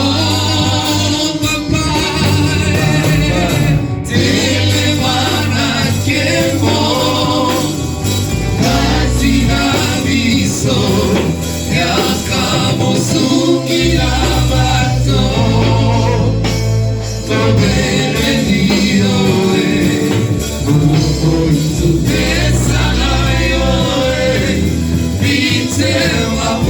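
Gospel music: a choir singing over a band, with deep bass notes holding underneath.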